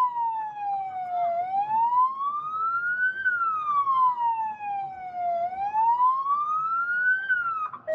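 Police car siren in a slow wail, its pitch gliding down, up, down and up again in cycles of about four seconds.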